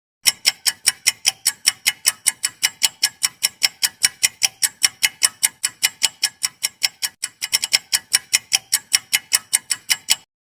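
Clock-ticking sound effect of a quiz countdown timer: fast, even ticks, about five a second, with a brief stumble in the rhythm about seven and a half seconds in, cutting off abruptly near the end.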